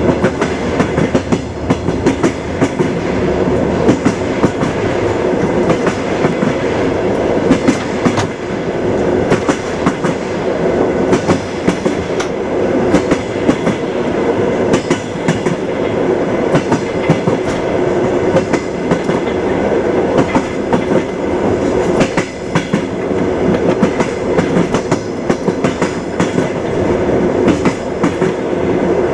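Train wheels knocking over the rail joints, a continuous rumble of a moving train with frequent sharp clacks.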